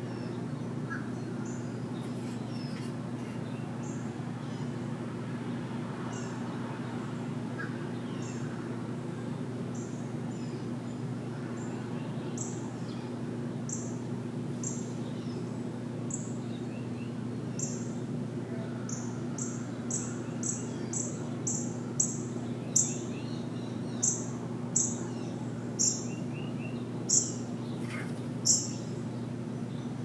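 Wild bird chirping in short, high notes, sparse at first, then repeated about once or twice a second and louder over the second half, over a steady low hum.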